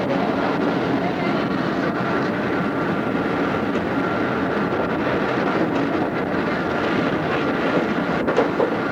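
Odakyu 2600-series electric train running: a steady rumble of wheels on rail with faint steady tones above it, heard on an old cassette-tape recording.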